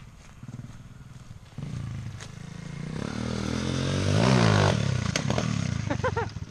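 Lifan pit bike's small single-cylinder four-stroke engine revving hard as the bike accelerates toward and past, getting louder and peaking about four seconds in. A sharp knock follows about five seconds in as the bike lands off a jump and bottoms out its front shock.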